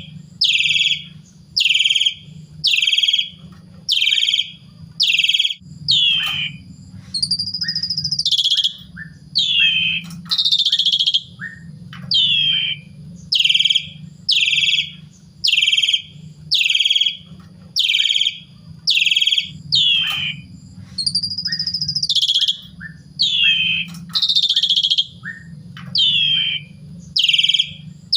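Javan pied starling (jalak suren) calling in full voice: a loud, sharp falling note repeated about every 0.7 s, twice broken by a longer warbled phrase. A steady low hum runs underneath.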